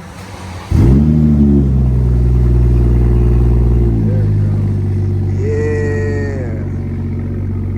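BMW 540i's straight-piped B58 turbocharged inline-six, muffler deleted, starting up loudly about a second in with a quick rev flare. It then settles into a loud, steady idle that drops to a lower idle about four seconds in.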